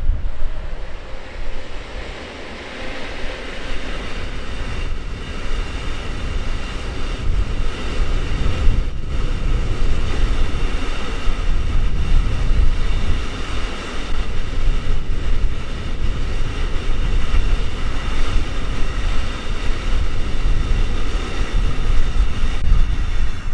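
Freight train of rail tank wagons rolling past on steel rails, a continuous noise of wheels on track with steady high tones over it. It falls away right at the end as the last wagon goes by.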